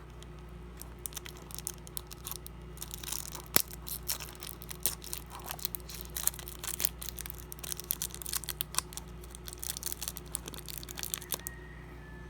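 Utility knife (cutter) scraping and slicing at the stuck seal of a small cardboard toy box, in irregular quick scratches and clicks, with the cardboard tearing and crinkling, over a faint steady hum.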